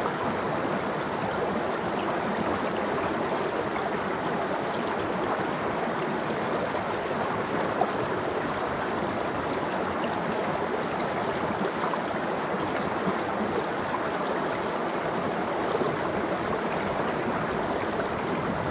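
Water of an icy valley stream flowing steadily.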